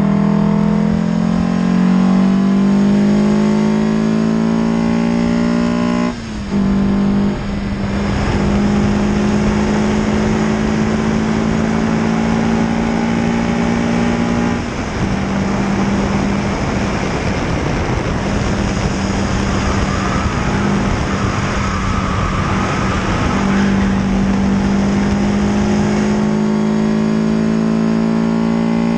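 Peugeot 306 GTi-6's four-cylinder engine accelerating on track, its pitch rising over the first six seconds. A short break for a gearchange follows, then a mostly steady drone, with heavy wind and road noise throughout.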